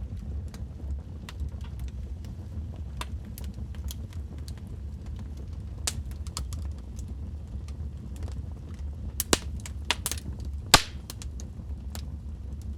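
Logs burning in a fireplace, crackling with scattered sharp snaps over a low steady rumble. A few louder pops come in a cluster about three quarters of the way through.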